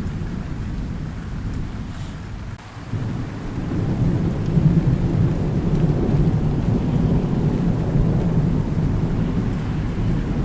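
Thunder rolling over steady rain: the low rumble eases off briefly about a quarter of the way in, then swells again and keeps rumbling.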